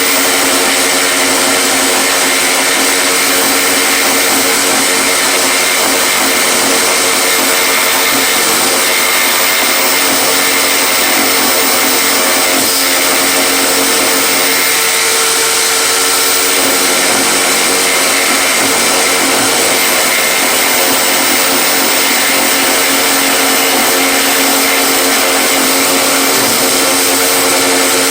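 Electric power tool motor running steadily and loudly, a continuous mechanical whine with a slight change in pitch about 16 seconds in.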